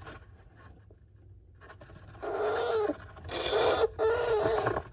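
Golden hamster gnawing and scraping at its container with its teeth, with a short rasp about three and a half seconds in. A person's voice without clear words runs through the second half.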